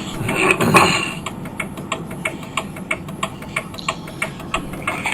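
Farm tractor's engine running on the road with an even clatter of about five ticks a second. A passing vehicle swells up and fades in the first second.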